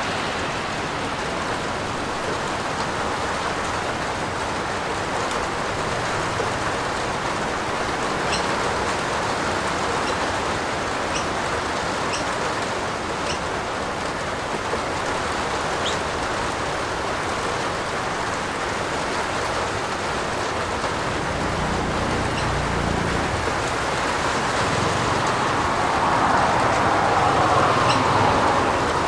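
Steady rain falling on a roof, an even hiss with a few faint sharp drip ticks. A low rumble swells in over the last several seconds.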